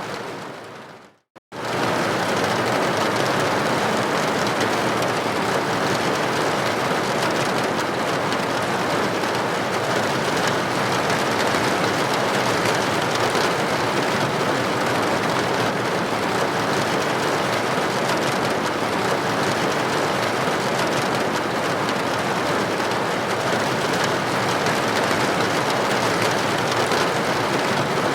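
Steady rain on a building window, an even hiss of droplets. About a second in it drops out to silence for a moment, then returns and holds steady.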